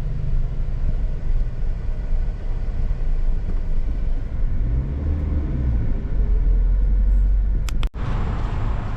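Car engine and road rumble heard from inside the cabin in slow traffic, with the engine note rising and falling about five seconds in as it pulls away. The rumble is loudest just before an abrupt cut near the end, after which a lighter background noise follows.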